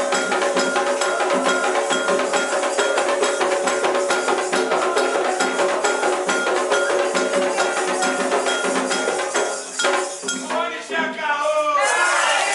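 Candomblé ritual percussion music: drums and bells striking in a fast, even rhythm, with held tones over it. About ten seconds in the rhythm breaks off and voices come in.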